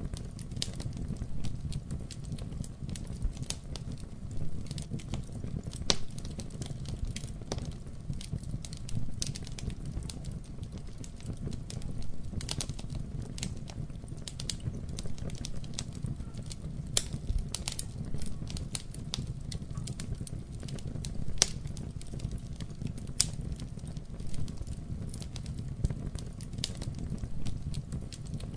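Wood fire burning in a fireplace: a steady low rumble of flame with frequent irregular sharp pops and crackles from the burning logs.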